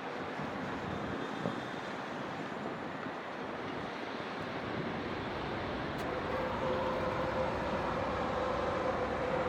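Steady wash of distant city traffic, with a steady engine tone from a vehicle coming in about halfway through and growing a little louder.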